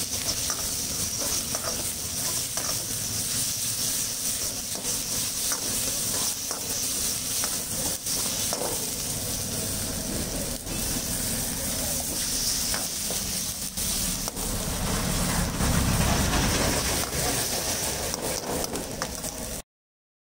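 Ginger-garlic paste, onion and green chillies sizzling in hot oil in an iron wok, with a metal ladle scraping and knocking against the pan. About three-quarters of the way in the sound swells briefly as water is added, and it cuts off abruptly just before the end.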